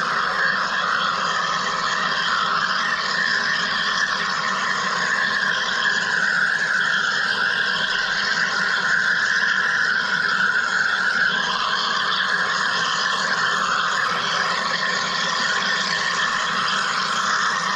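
Wire EDM machine running, a steady, even hiss-like noise.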